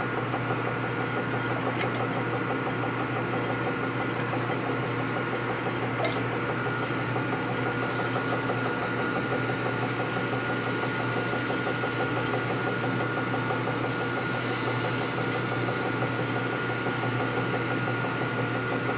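Power honing machine running steadily, its honing stone grinding through a bore with a constant motor hum and a fine, fast scraping ripple. The bore is starting to run short of honing oil, which the operator calls not good.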